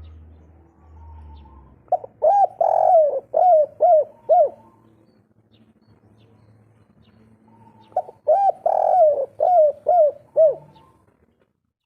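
Spotted dove (derkuku) cooing its 'kuk 3' song: two phrases of about six coos each, a few seconds apart.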